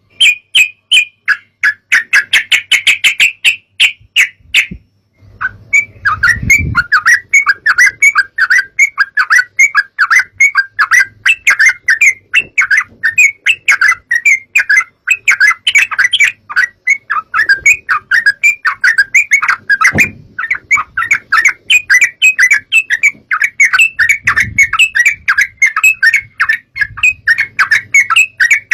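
Yellow-vented bulbul (trucukan) chattering: a rapid string of short, sharp notes that pauses briefly about five seconds in, then runs on densely. A few low thumps lie underneath.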